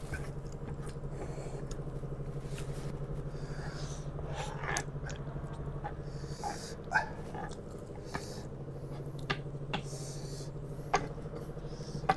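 Mukbang eating sounds: scattered mouth noises from chewing and slurping noodles, with short sharp clicks, over a steady low hum.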